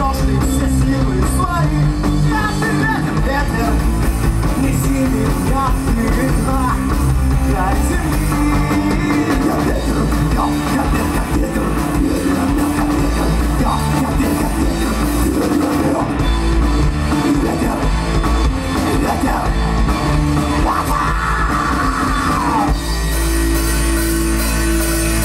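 Rock band playing a song with drum kit, guitars and a singing voice. Near the end the arrangement shifts to a repeated note pattern.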